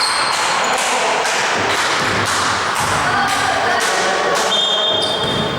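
Regular thuds about twice a second over a steady rushing noise in a basketball gym.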